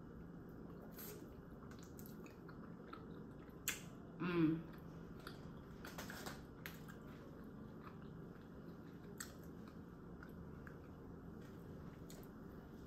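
Soft, close-up chewing and mouth sounds of a person eating pizza, with small scattered clicks. About four seconds in there is a sharp click, then a short voiced sound from the eater.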